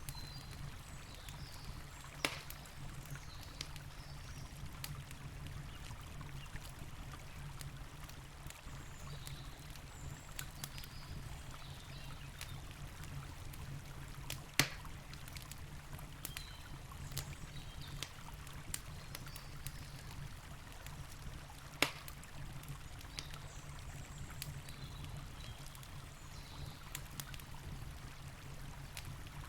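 Campfire crackling, with scattered small ticks and three louder sharp pops about two, fifteen and twenty-two seconds in, over the steady low rush of a flowing river.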